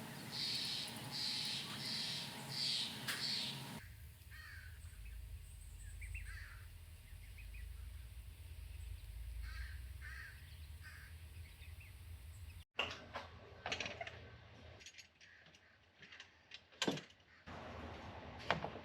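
A bird, most likely a crow, cawing about five times in quick succession. After an abrupt change a few seconds in, faint short bird chirps sound over a low hum, and in the last third come scattered sharp clicks and knocks.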